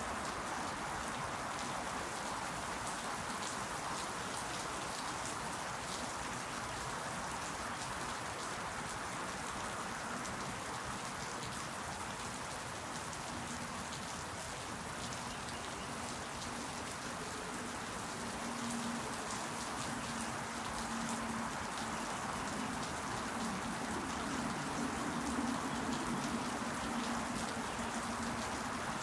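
Steady rain falling, with many close drops ticking on surfaces. A faint low hum joins about a third of the way in and fades near the end.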